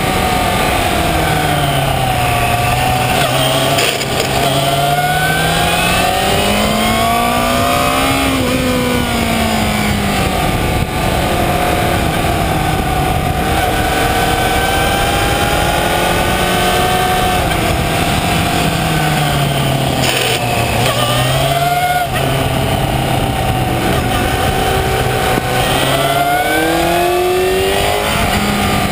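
Yamaha FZ6 Fazer's 600 cc inline-four engine running hard, its revs dropping several times for corners and climbing again on the throttle, with long steady stretches at high revs. Rushing wind over the microphone runs underneath.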